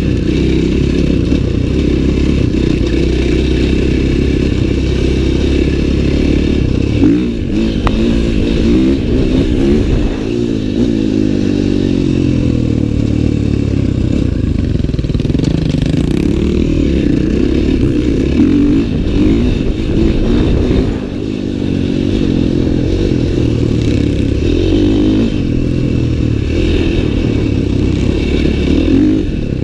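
Dirt bike engine running and revving, its pitch rising and falling as the throttle changes, with a brief drop in level about two-thirds of the way through.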